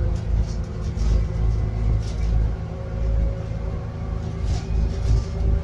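Scania N280UD biogas double-decker bus heard from inside the saloon: a low engine rumble with a steady whine above it that rises slightly in pitch in the second half as the bus runs along.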